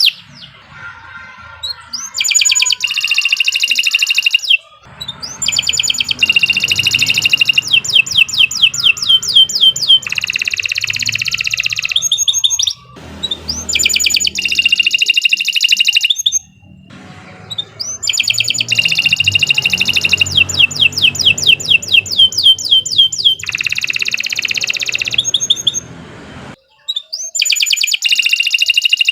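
Domestic canary singing long, loud phrases of fast trills and rolls, one phrase after another with short pauses between them.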